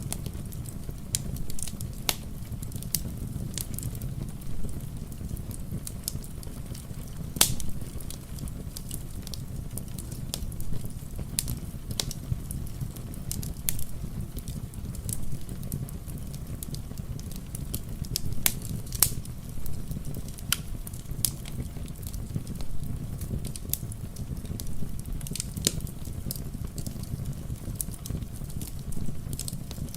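Wood fire crackling, with irregular sharp pops and snaps over a steady low rush; the loudest pops come about seven seconds in and again near nineteen seconds.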